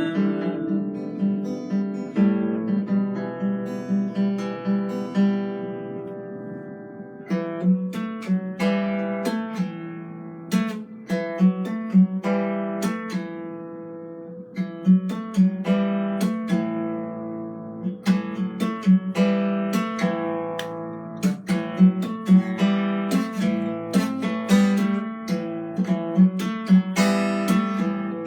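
Solo plucked string instrument played live: picked notes and strummed chords that ring out and die away.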